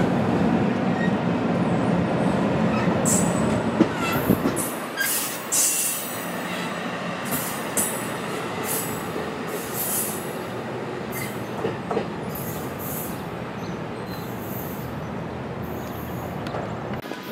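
A train rolling past: heavy rumble of wheels on rail for the first four or five seconds, then a lighter rolling noise with repeated short high-pitched squeals and clicks from the wheels.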